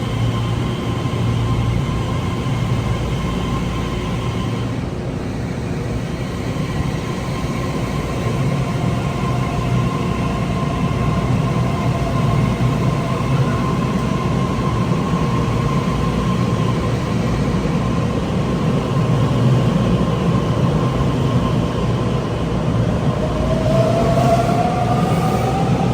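Taiwan Railway train running: a steady rail rumble with a faint whine, and a whine rising in pitch near the end.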